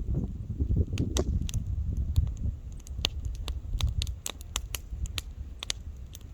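Wood campfire crackling: irregular sharp pops and snaps, densest in the middle of the stretch, over a steady low rumble.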